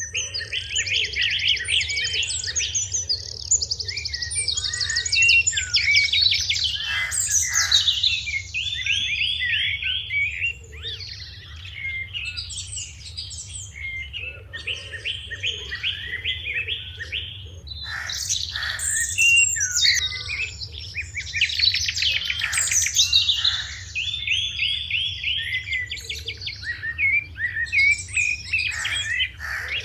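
A flock of sparrows chirping, with many rapid, overlapping runs of chirps throughout, over a steady low hum.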